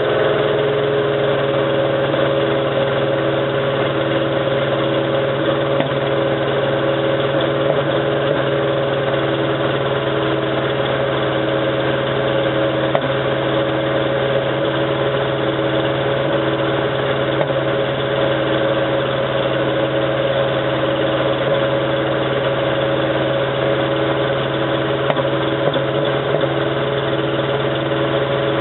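Toyota 22RE four-cylinder engine idling steadily but roughly with a persistent misfire, as if running on only two or three cylinders. The cause proved to be a failed head gasket and cracked aftermarket cylinder head, with spark plugs fouled from burning antifreeze.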